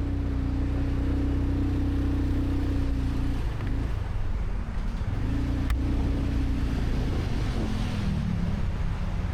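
Motorcycle engine running under way over a rumble of wind and road noise, its note dropping about three seconds in, rising again a couple of seconds later and falling off near the end. One sharp click near the middle.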